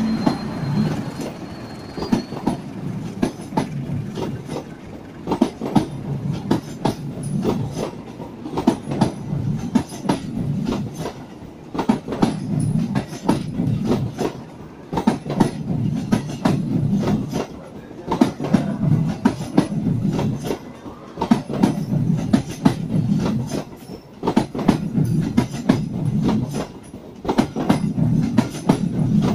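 Passenger train coaches rolling past at close range: a steady low rumble of the wheels, with clickety-clack in repeating groups of sharp clacks every couple of seconds as each coach's wheelsets cross the rail joints.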